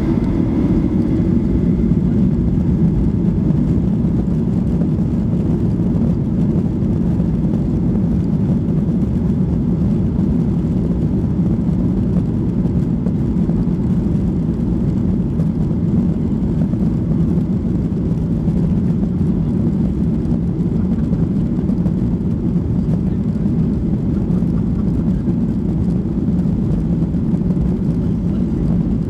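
Steady cabin noise of a Boeing 737-800 heard from inside the passenger cabin: a constant low roar of its CFM56 jet engines and airflow, without rising or falling.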